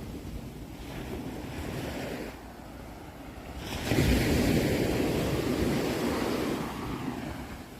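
Sea waves on a shore: a quieter lull, then a wave breaks about four seconds in and washes back out near the end.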